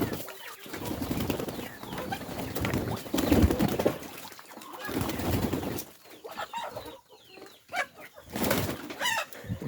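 Chickens in a coop clucking, with rustling and wing flapping, and a run of short calls near the end.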